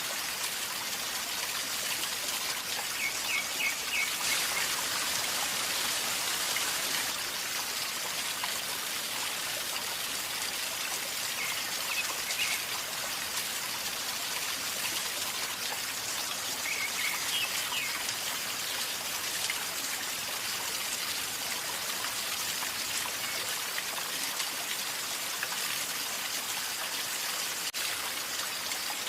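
River water flowing and gurgling steadily. Short high chirps come three times, about three, twelve and seventeen seconds in.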